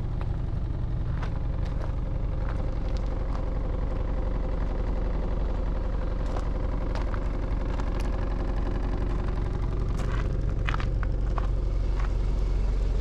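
1990 Mitsubishi Fuso bus's 7.5-litre diesel engine idling steadily with a low, even hum. Scattered light clicks and taps sound over it.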